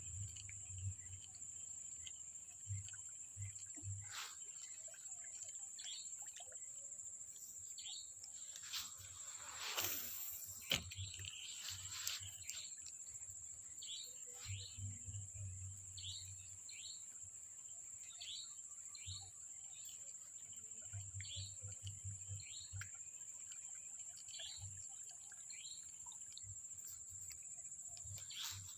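Faint outdoor ambience: a steady high-pitched insect drone with short chirps repeating throughout, and a brief whoosh about ten seconds in.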